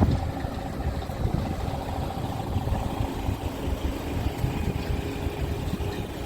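Scania R450 truck's 13-litre inline-six diesel engine idling with a steady low rumble.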